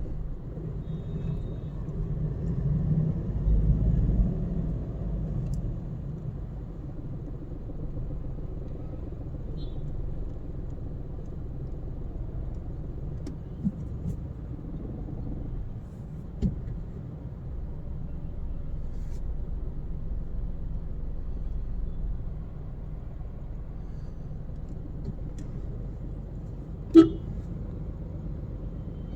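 Car road and engine noise, a steady low rumble that swells briefly a few seconds in, with a single short car horn toot near the end.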